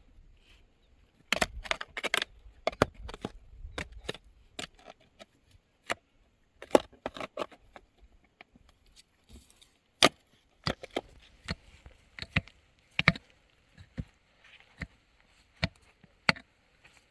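Hard, sharp clacks and knocks of stone striking stone: a quick run of strikes, then single knocks every second or so, as stones are tapped and set in dry-stone building.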